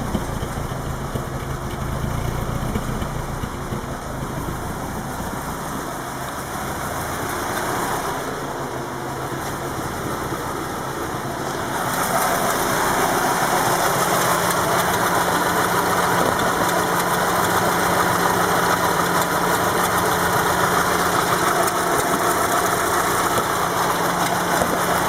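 VW Golf V 1.6 MPI (BSE) four-cylinder petrol engine idling unevenly with a "clucking" sound, the poor idle that smooths out above 1000 RPM or under load. About twelve seconds in, the engine sound gets louder and brighter and stays that way.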